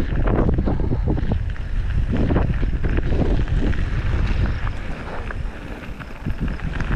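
Wind buffeting the microphone of a mountain biker's camera while riding, a steady low rumble with scattered knocks and rattles from the bike on the trail.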